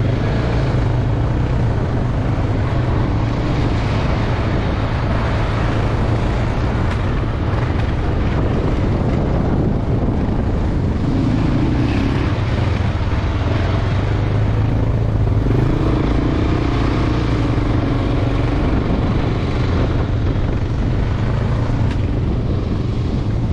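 Motorcycle engine running steadily under way: an even, low drone with little change in pitch.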